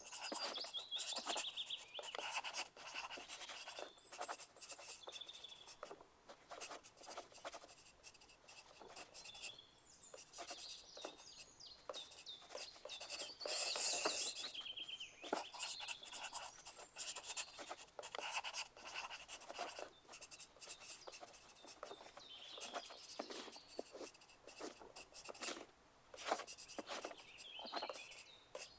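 Pencils writing on paper: continuous, irregular scratching with quick short strokes and taps, louder for a moment about halfway through.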